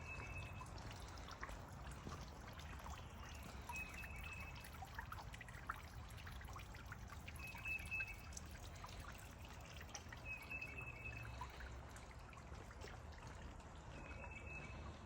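Small stream of water trickling and plinking. A short high call repeats about every three to four seconds.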